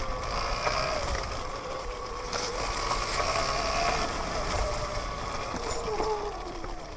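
Sur-Ron electric dirt bike moving slowly along a trail: a faint motor whine that rises a little and falls again toward the end, over a steady rumble of tyre and wind noise.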